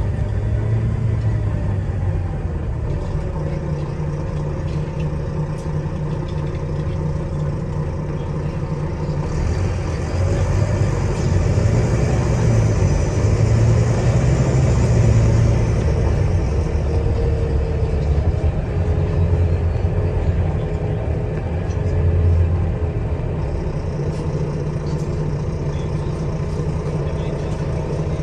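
Diesel engine of a Wright Eclipse Gemini 2 double-decker bus running while under way, heard from inside the passenger cabin. About nine seconds in it gets louder as the bus pulls harder, the revs rising and falling through the gears, and it rises again briefly later on.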